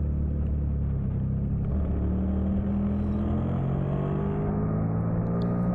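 A 2003 Suzuki SV650's 645 cc V-twin engine running hard under racing load, its pitch climbing steadily as it accelerates, with wind and road noise.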